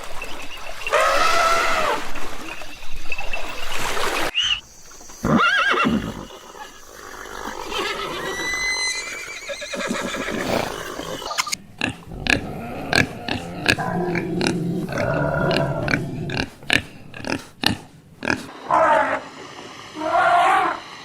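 A run of farm animal calls from several short clips, among them a horse neighing. Sharp clicks and knocks run through the middle stretch.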